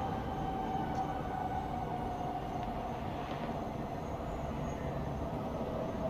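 Distant night-time town noise: a steady low rumble with one drawn-out tone that slowly falls in pitch.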